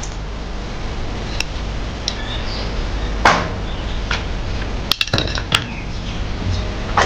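Metal tools and engine parts clinking and knocking as an engine is dismantled by hand: a few separate clanks, the loudest about three seconds in and a quick cluster around five seconds, over a steady low background hum.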